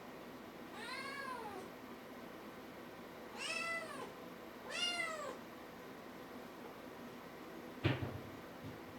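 A kitten meowing three times, high-pitched calls that rise and fall, followed near the end by a single sharp knock.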